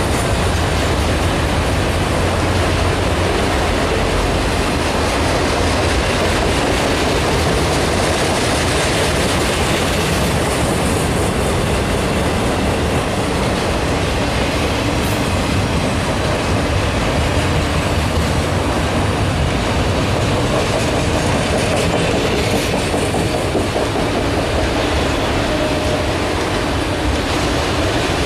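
Freight train of autorack cars rolling past close by: steady loud rumble and clatter of steel wheels on the rails.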